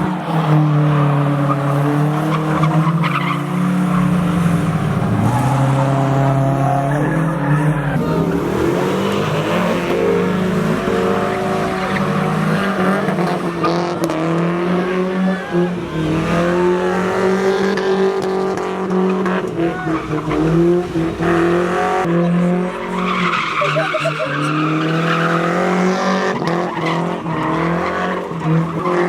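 Car engines revving up and down hard while tires squeal and skid on pavement as cars slide through donuts and drifts.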